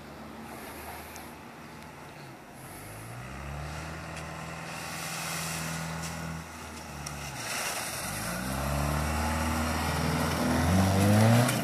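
Subaru flat-four engine revving under load as the car spins donuts in deep snow: the revs rise about three seconds in, hold, fall back, then climb again and grow louder as the car swings close near the end.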